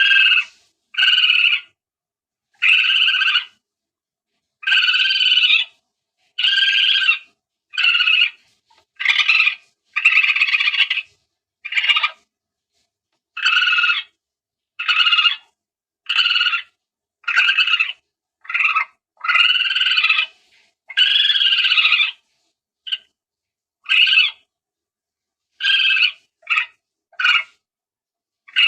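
Common palm civet calls played as a hunting lure: over twenty short pitched calls, each about a quarter-second to a second long, repeated at uneven intervals with dead silence between.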